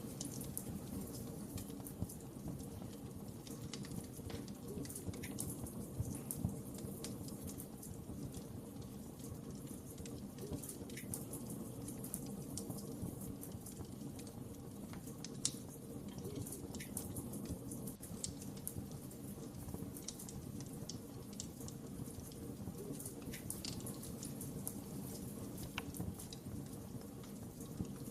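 Fire in a fireplace crackling: irregular sharp snaps and pops over a steady low rumble of burning, with a couple of louder pops.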